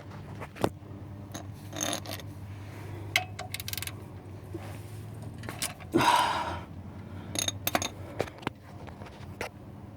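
Socket wrench working the oil pan drain plug loose: scattered metal clicks and clinks, with a louder scraping burst about six seconds in.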